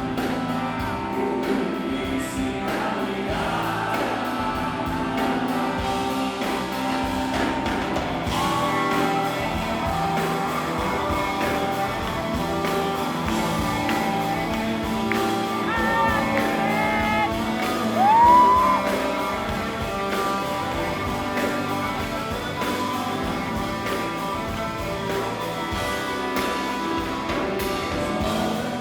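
Live band music with a voice singing, heard through the hall, with other voices joining in. About eighteen seconds in, one loud rising shout or whoop stands out above the music.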